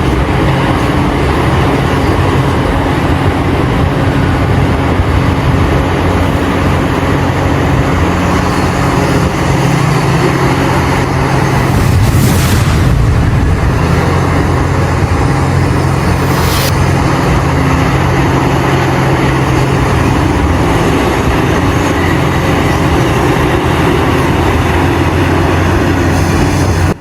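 Heavy diesel machinery at work: the engines of large excavators and dump trucks run steadily under load. Two short hisses come near the middle.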